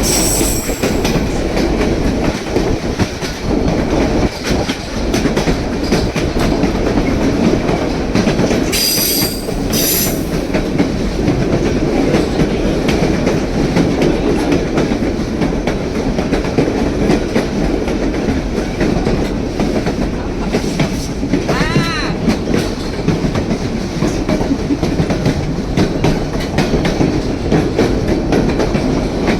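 White Pass & Yukon Route narrow-gauge train cars running along the track: a steady rumble with the clickety-clack of wheels over rail joints. Brief high wheel squeals come about nine and ten seconds in.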